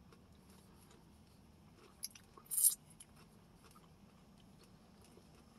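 A person eating: faint chewing with small mouth clicks, a sharp click about two seconds in, and a brief, louder, high-pitched noise just after it.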